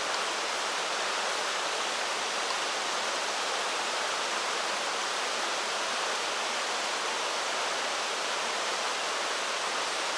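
Mountain stream water flowing over rocks: a steady, even hiss with no breaks.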